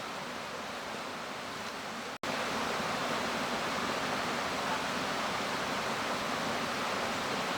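Mountain stream rushing steadily. It cuts off for an instant about two seconds in and comes back slightly louder.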